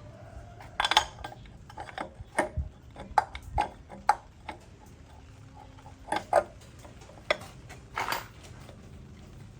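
Irregular metallic clinks and knocks of tools and metal parts being handled and set down, about a dozen sharp strikes at uneven intervals, the loudest about a second in and around three to four seconds in.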